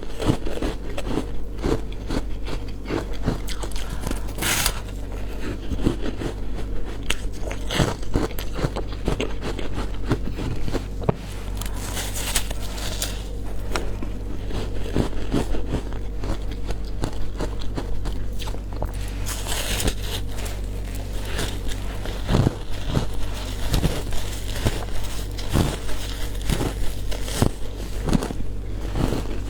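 Frozen matcha ice being bitten and chewed close to the microphone: continuous irregular crunching and cracking, with a few longer crackling bites.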